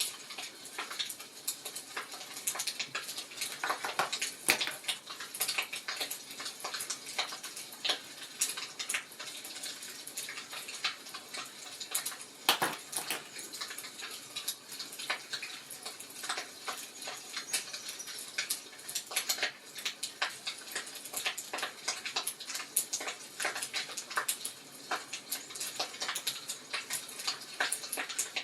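Wood fire crackling in a fireplace: a steady stream of small, irregular crackles and snaps over a soft hiss, with a few louder pops.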